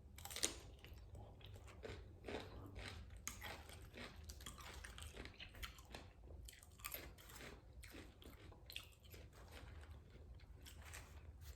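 Faint, close-miked chewing of food: a string of soft, irregular crunches and mouth clicks.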